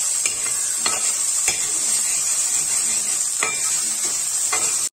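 Sliced okra sizzling steadily in oil in a metal pan over turned-up heat, stirred with a spoon that knocks and scrapes against the pan four times.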